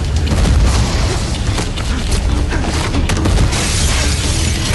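Fight-scene soundtrack: a dense run of quick hits and booms over a heavy, steady low rumble of score music.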